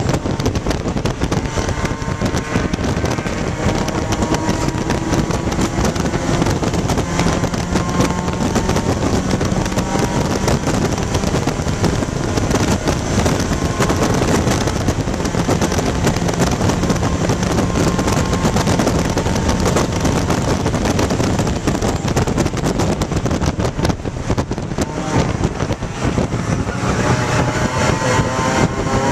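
In-cabin sound of a 1995 Dodge Neon ACR's four-cylinder engine running hard at racing speed, under constant road and wind noise. The engine note holds steady for stretches, then climbs steadily near the end as the car accelerates.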